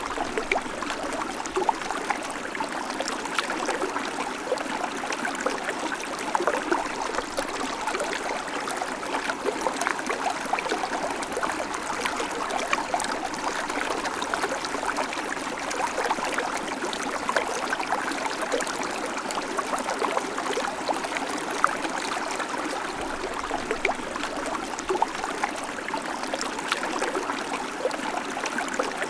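Babbling creek: water running steadily over stones, with many small splashes and gurgles scattered through it.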